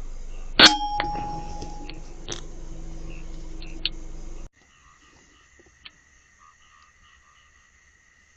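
A single sharp shot from an FX M3 PCP air rifle a little over half a second in, with a metallic ringing tail, followed by a few light clicks. About halfway through the sound cuts to quiet night insects chirring steadily.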